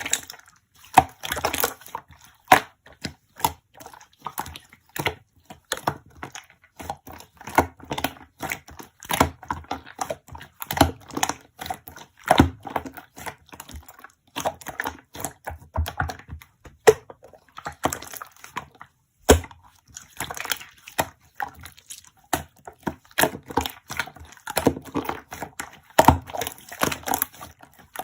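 Close-up handling sounds: a dense, irregular run of taps, clicks and crinkles, with no steady rhythm.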